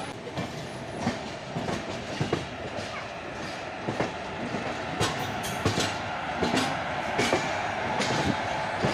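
Passenger coach of an express train running over yard track: a steady rumble of the running gear with sharp wheel clicks over rail joints and points, about one a second, a faint steady whine joining about halfway through.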